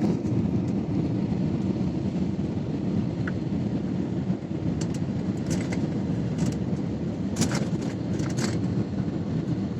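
Steady low rumble of an airliner landing, with a few sharp clicks and rattles about halfway through.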